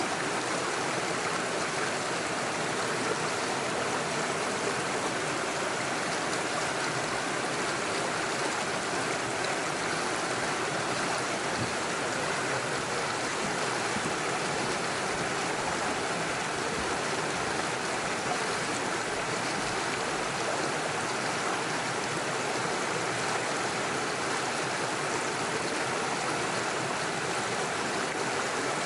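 Small rocky stream running over stones and little waterfalls, a steady rushing and burbling of water.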